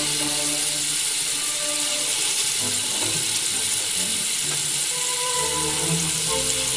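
Beef hamburger patty sizzling steadily in oil in a frying pan, under background music.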